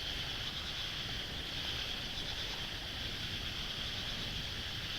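A steady, high-pitched chorus of night insects with a fine pulsing texture, over a low rumbling noise.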